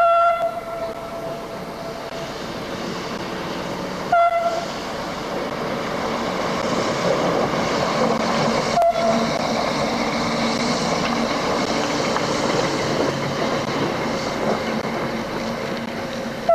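A diesel locomotive running along the track with a steady rumble of engine and wheels. Its horn gives a short blast about four seconds in and a brief toot about nine seconds in.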